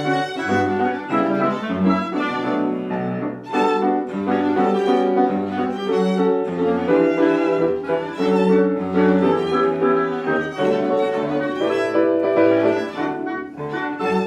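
Chamber ensemble playing classical music live: violin carrying the line over cello and piano, with sustained notes above a moving bass line.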